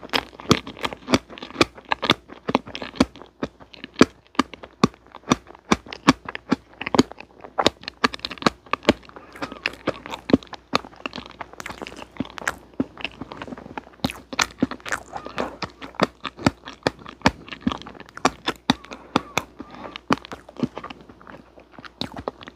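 A person chewing a mouthful of strawberry cream omelet (soft sponge cake, whipped cream and fresh strawberry): a dense run of sharp mouth clicks, several a second.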